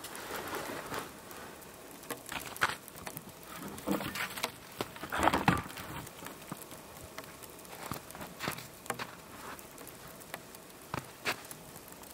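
Wet falling snow pattering irregularly, with scattered light clicks and a few louder knocks or snaps.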